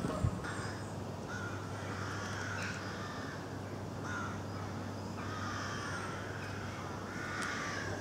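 Wild birds calling in the background, a run of short hoarse calls about once a second. A single short knock sounds just after the start, and a low steady hum runs underneath.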